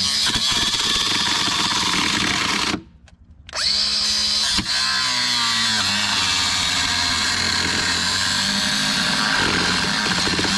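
Power grinder grinding metal with a steady high whine. It stops a little under three seconds in and spins back up about a second later.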